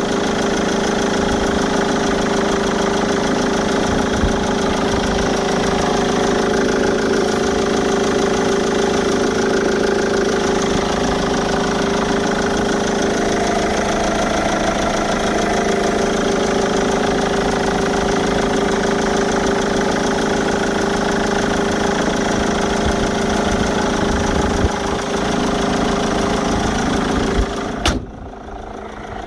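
GM Daewoo Winstorm SUV engine idling steadily. Near the end there is a sharp click, after which the sound is quieter.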